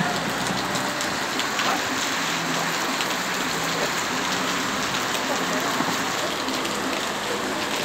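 Heavy rain falling steadily, with many scattered drop ticks.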